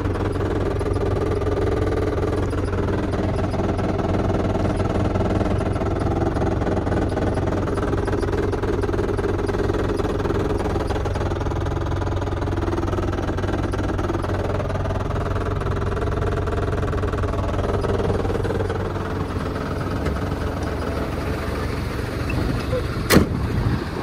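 MAN TGL 8.180 truck's diesel engine running steadily; it eases off slightly about 19 seconds in, and a single sharp knock sounds near the end.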